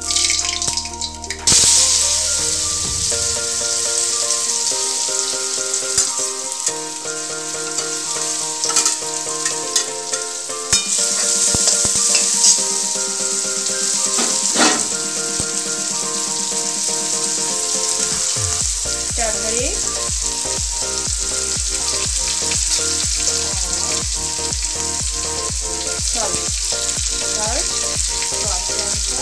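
Chopped onion, tomato and green chilli sizzling in hot oil with nigella seeds in an aluminium kadai, stirred with a steel ladle. The sizzle jumps up loudly about a second and a half in, as the vegetables hit the oil, and then sizzles steadily.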